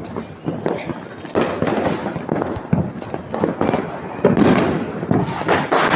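Many firecrackers and fireworks going off at once: a dense run of overlapping bangs and crackles, heaviest from about four seconds in.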